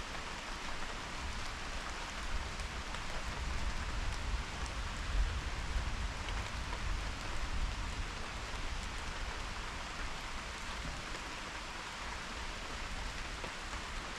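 Steady rain falling and pattering on surfaces, with a low rumble underneath that swells and fades through the middle.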